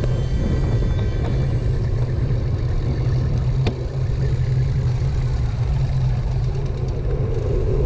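Steady low wind rumble on a bike-mounted action camera's microphone while riding a road bike, with road and traffic noise mixed in and a single sharp click a little past halfway.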